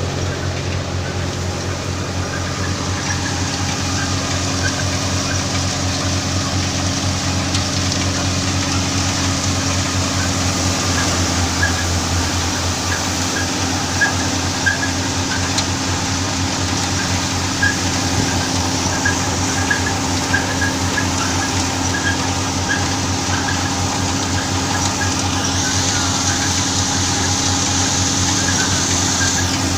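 Tractor engine running steadily while driving a thresher machine, with many small irregular ticks and rattles over the engine note. A brighter hiss joins in near the end.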